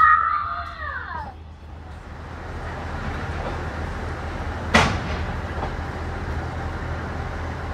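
A diesel railcar idles at a station platform, a steady low hum under a noisy hiss. There is a single sharp clank about five seconds in, and a voice briefly at the start.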